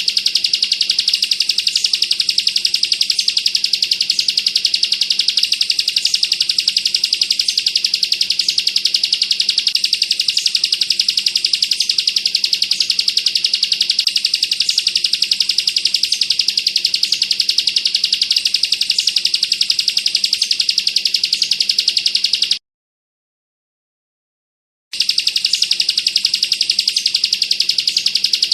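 Bar-winged prinia (ciblek) singing its 'bren' song: a loud, fast, machine-gun-like trill of high notes, kept up without pause. About 22 seconds in it cuts out completely for about two seconds, then starts again.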